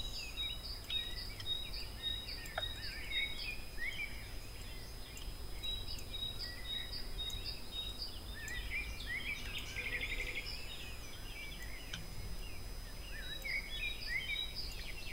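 Faint background birdsong: many short chirps and repeated high notes, with a brief buzzy trill about ten seconds in, over a low steady room noise.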